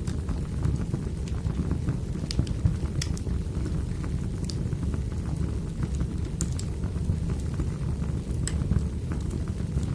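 Wood fire burning, with scattered sharp crackles and pops over a steady low rumble of the flames.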